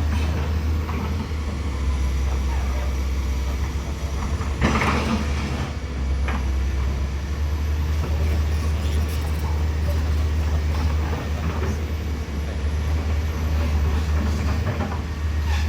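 A heavy road vehicle's engine running steadily as a deep rumble, with a short louder hiss about five seconds in.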